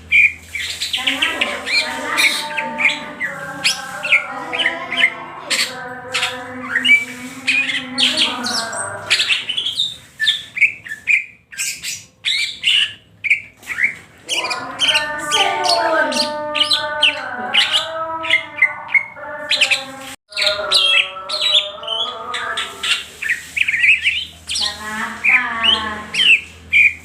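Cucak hijau (green leafbird) singing a loud, varied, fast chattering song, known among bird keepers as gacor ngentrok: long runs of warbled phrases mixed with sharp chips, thinning to scattered short notes for a few seconds around the middle.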